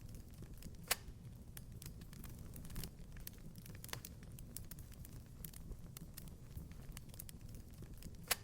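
Wood fire crackling in a fireplace: a steady low rumble with frequent small crackles and two sharp louder pops, one about a second in and one near the end.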